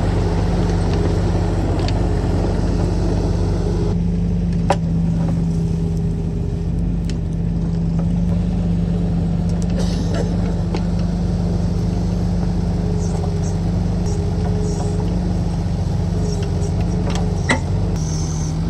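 Heavy-equipment engine running steadily at a constant speed, with two sharp clanks, one about five seconds in and one near the end.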